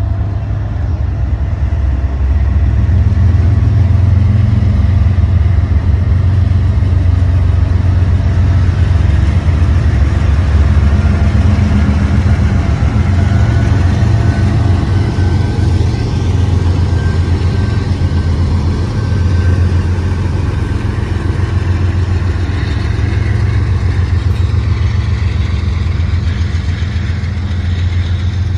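Norfolk Southern diesel-electric freight locomotives passing close by with a steady, heavy engine rumble. The double-stack container well cars then roll by on the rails, and a faint high whine is heard near the middle.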